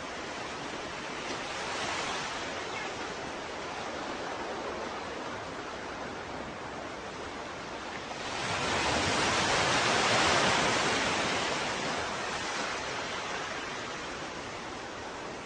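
Ocean waves: a steady hiss of surf with a small swell about two seconds in, then a larger wave building about halfway through, washing in and fading away.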